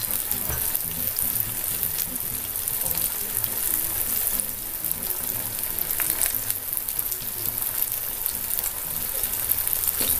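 Egg snack rolls deep-frying in hot oil in a pan, cooking on their second side: a steady sizzle with a few faint ticks.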